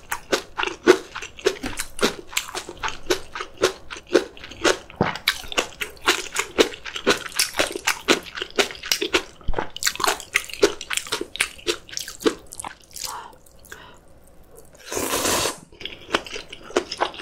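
Close-miked eating: rapid crisp crunching and wet chewing of kimchi with noodles, quieter for a moment near the end, and then one short noisy burst.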